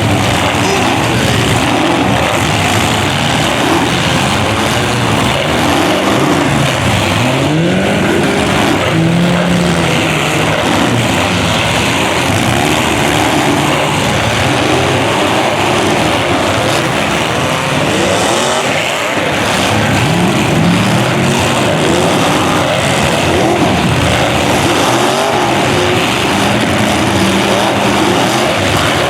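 Several demolition derby cars' engines revving, their pitch rising and falling, overlapping over a dense, loud background of engine and tyre noise.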